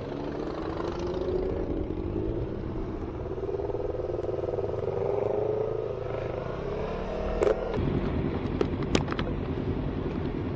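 Yamaha R3 parallel-twin motorcycle engine under way, its pitch rising and falling with the throttle, then settling into a steadier rumble with a few sharp clicks about seven seconds in.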